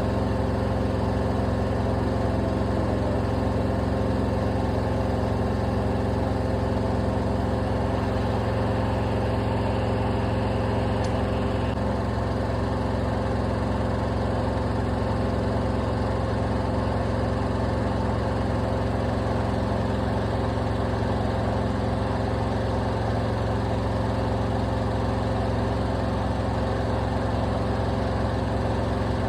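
Old LG washing machine running a spin cycle: a steady motor hum with the drum rumbling, unchanging in pitch and level.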